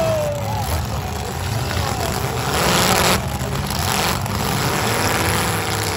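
Demolition derby cars' engines running with a steady low sound, broken by a short burst of noise about three seconds in and a weaker one a second later.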